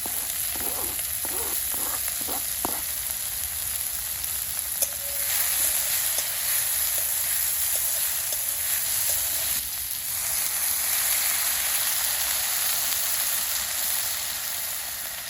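Chopped vegetables and paneer sizzling as they fry in a hot pan over a campfire. The sizzle gets louder about five seconds in, just after a sharp click.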